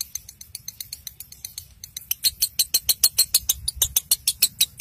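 Lovebird chattering in a fast, even run of short high chips, about nine a second. The chips get louder about halfway through.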